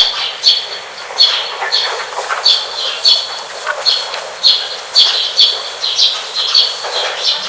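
Nature sound effect of short high chirps, about two a second, over a steady hiss. It starts and cuts off abruptly.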